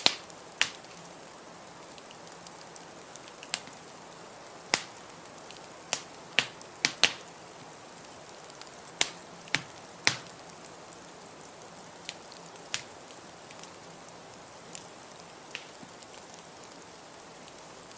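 Wood fire in a fireplace crackling, with sharp irregular pops and snaps about once a second, the loudest near the middle, over a steady hiss.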